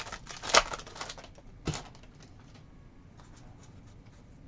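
Trading cards being handled and flipped through by hand: a few sharp card snaps and rustles in the first two seconds, then only faint light clicks.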